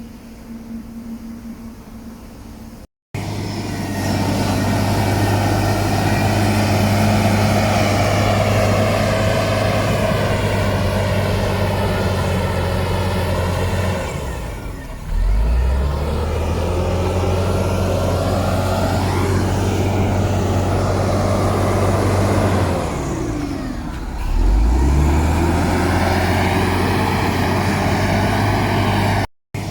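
Heavy diesel engine of earthmoving machinery running hard under load. It comes in loud about three seconds in, after a quieter start. Its pitch sags and climbs back up twice, about halfway through and again later, as the throttle is eased and opened again.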